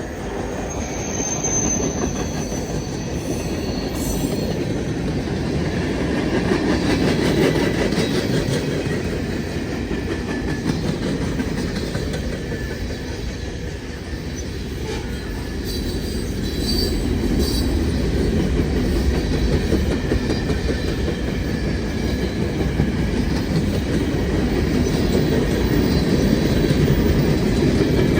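Freight cars of a long freight train rolling past: a steady rumble of wheels on rail with clickety-clack from the rail joints and faint high wheel squeal at times.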